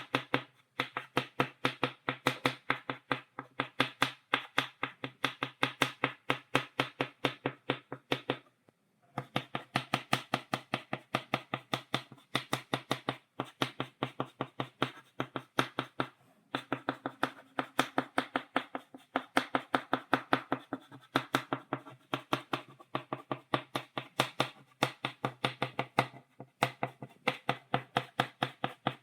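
Chalk tapped against a blackboard in quick dots for a stipple drawing: a rapid run of sharp taps, several a second, with a few brief pauses.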